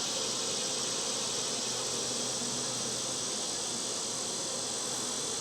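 Honey bees buzzing steadily around an opened hive, a continuous hum with no break.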